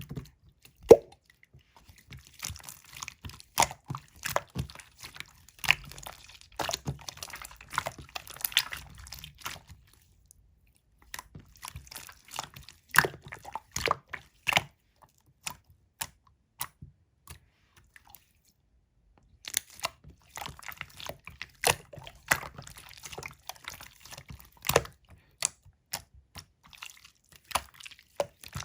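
Clear slime being squished and pressed by hand: irregular wet clicks and pops, with a few seconds' pause a little past halfway.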